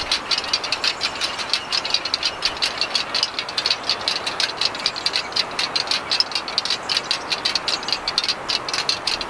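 Kinetic wind sculpture hung with many small birds, clicking and clattering against one another in the wind in a dense, uneven patter that rises and falls with the gusts. The loudness of the patter shows how hard the wind is blowing, and it can sound like rain.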